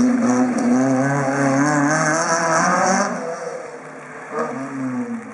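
Rally car engine revving hard, its pitch rising and falling with throttle and gear changes, then fading away about three seconds in as the car drives off.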